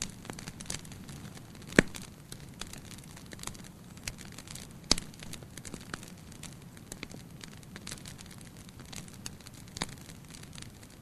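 Wood fire in a fireplace, burning with a steady low rush and irregular crackles, with sharp louder pops about 2 seconds and 5 seconds in.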